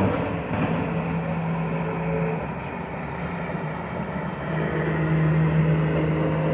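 Truck engine running with a steady drone, growing louder a little past halfway.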